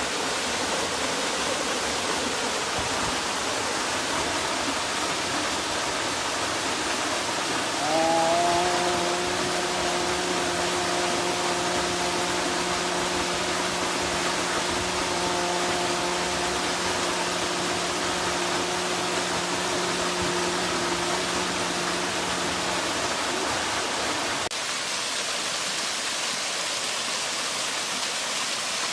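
Waterfall rushing, a steady dense wash of falling water. About a third of the way in a steady droning tone with overtones joins it and fades out well before the end.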